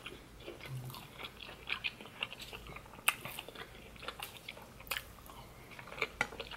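Eating sounds: chewing and biting, heard as many small, irregular clicks and taps.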